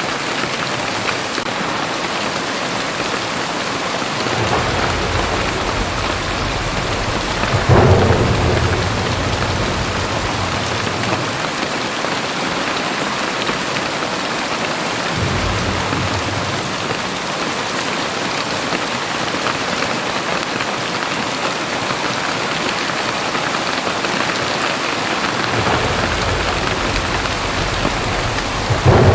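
Very heavy rain falling steadily, with deep low rumbles that swell and fade several times. A louder, sharper rumble comes about eight seconds in and another right at the end.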